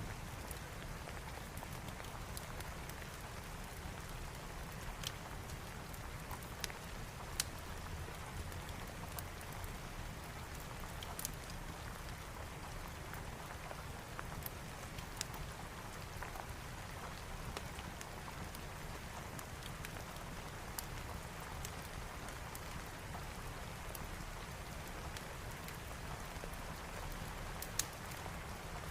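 Steady rain with scattered sharp crackles of a wood fire.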